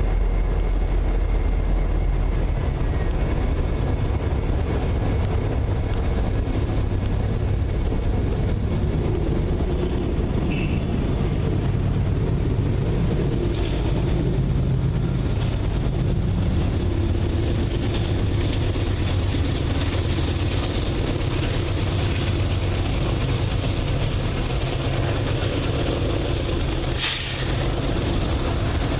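Diesel freight locomotives running steadily, a low engine drone with a faint air hiss. A single sharp click near the end.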